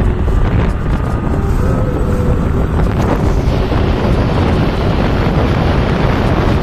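Loud wind rushing over the microphone while riding on a moving motorcycle.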